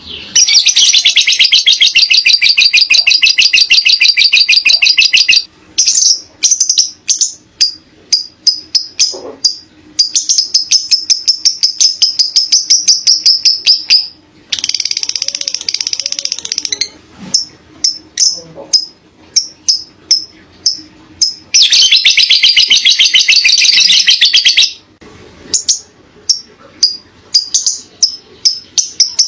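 Lovebird singing its long, rapid chattering trill ("ngekek panjang"), three long unbroken trills of a few seconds each, with runs of sharp single chirps, about two a second, between them.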